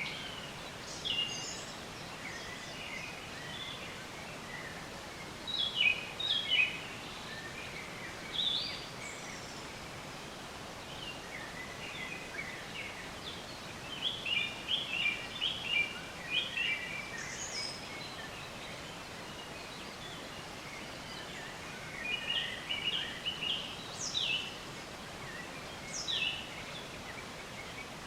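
Several songbirds chirping and trilling in short phrases, with busier bursts of song now and then, over a steady faint background hiss.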